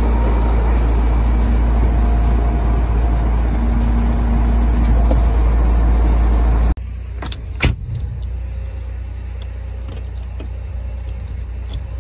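Volvo A25G articulated haul truck's diesel engine running as a steady low rumble. About two-thirds of the way through it drops off abruptly to a much quieter engine background with a few sharp knocks and clinks.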